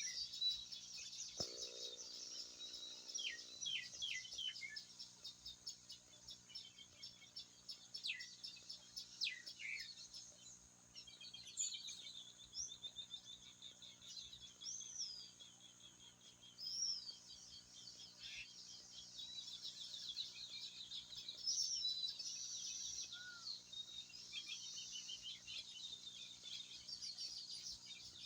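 Many birds chirping and whistling at once over a steady background of insects, like a dense forest chorus, with short rising and falling whistles scattered throughout.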